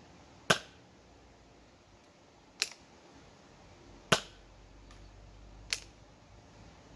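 A hand-cycled foam-dart blaster with a brass cylinder, fired and worked repeatedly. Four sharp pops come about one and a half to two seconds apart, the first the loudest.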